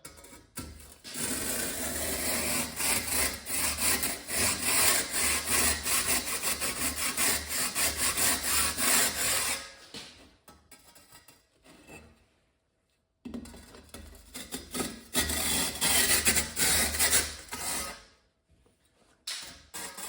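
Wood hand saw cutting through a soft insulating firebrick in quick back-and-forth strokes: a long run of sawing, a pause of a few seconds, then a shorter run.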